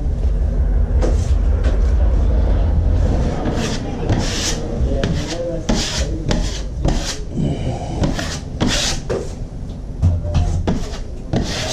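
Repeated rasping strokes of something rubbing over a hard surface, about one and a half a second, over a low rumble that is strongest in the first few seconds.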